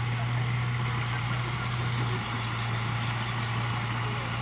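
Diesel engine of an earthmoving machine running steadily, a constant low drone with no change in pitch.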